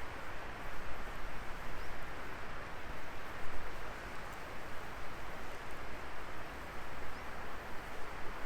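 Wood fire burning, with a steady dense crackle and hiss and occasional small sharp pops.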